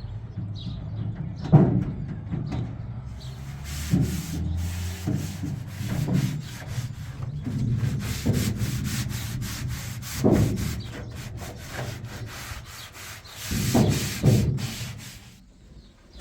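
Rapid, repeated scraping or rubbing strokes, with a few dull thumps.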